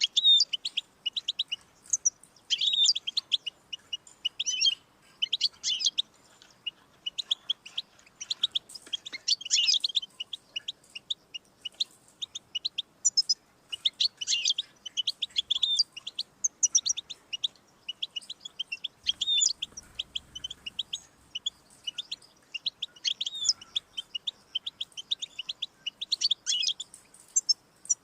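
European goldfinch singing: rapid, high twittering and trilling phrases, one after another with short breaks.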